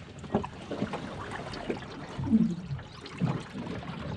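Water trickling and splashing, with irregular splashes and a few sharp knocks.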